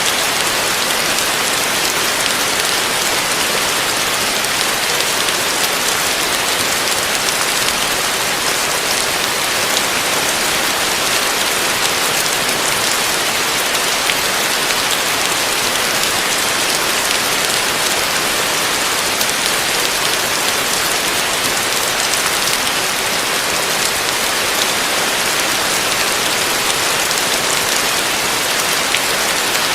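Heavy rain falling steadily: a dense, even hiss of rain with fine drop patter and no thunder.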